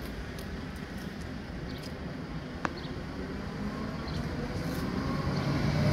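Approaching train at a closed level crossing: a steady rumble that slowly grows louder toward the end, with a single sharp click about two and a half seconds in.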